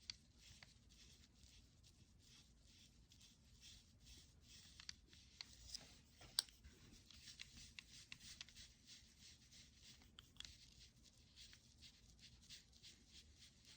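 Faint, quick strokes of a painting brush on paper, coming in runs, with a sharper tap about six seconds in.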